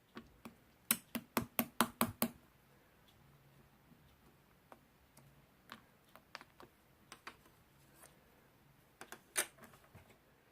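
A quick run of about eight sharp clicks or taps, then scattered single clicks, and a short cluster again near the end.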